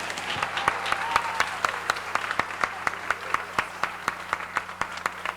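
Audience applauding, with individual claps standing out and the applause slowly thinning and dying down toward the end. A faint steady electrical hum underlies it.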